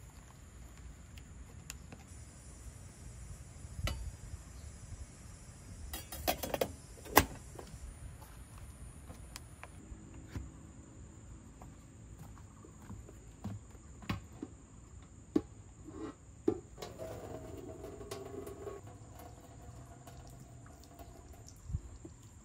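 Scattered clinks, taps and knocks of small objects being handled, with a brief pitched scraping sound late on, over a steady high-pitched insect chirr.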